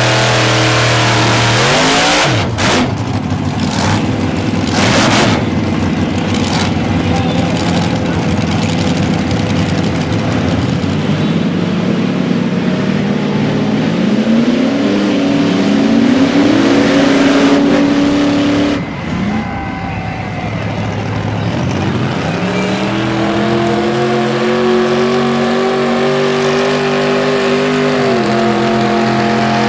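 Pickup truck engines revving hard under load while pulling against each other in a truck tug-of-war, the revs climbing and falling several times. There are a few sharp cracks a few seconds in, and a long steady high-rev pull late on that steps down near the end.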